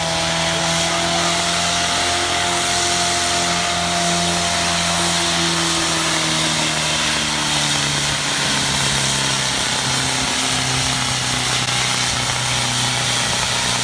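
1976 Ford 6600 diesel tractor engine running hard at full throttle, pulling a weight sled. Its pitch slowly sags about halfway through as the engine lugs down under the growing load, then holds steady.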